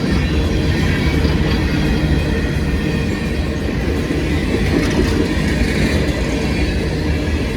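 Freight cars of a passing CSX freight train rolling by on the rails: a steady, loud rumble of wheels and cars.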